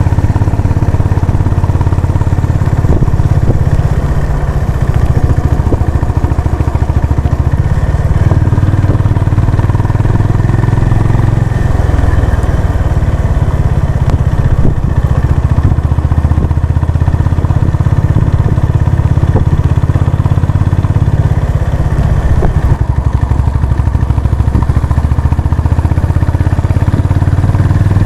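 Honda CB350 RS's single-cylinder engine and exhaust running steadily with a deep, rapid thump while the bike is ridden, with small shifts in engine note along the way.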